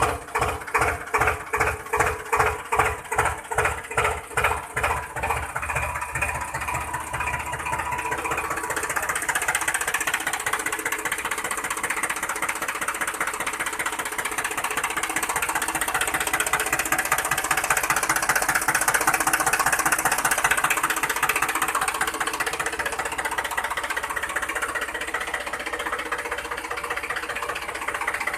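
Motor and gear drive of a homemade model tractor running. It gives a rhythmic thudding about two to three times a second for the first six seconds, then settles into a steady whirring with a higher whine.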